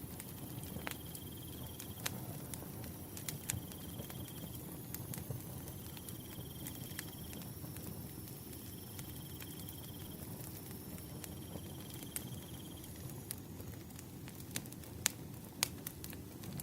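Firewood burning: sharp, scattered crackles and pops over a low steady rush of flame, with two louder pops near the end. A cricket chirps in short trills about every two seconds, stopping about three-quarters of the way through.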